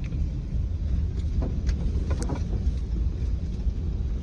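Steady low vehicle rumble heard from inside a car, with a few faint ticks around the middle.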